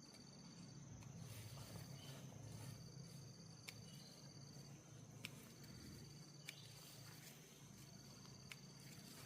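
Faint insects chirring: one steady high trill and a second trill that comes in stretches of about two seconds with short breaks, with four faint sharp clicks.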